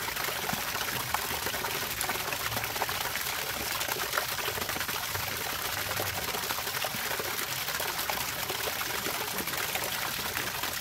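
Water trickling and pouring steadily, a dense patter of small splashes.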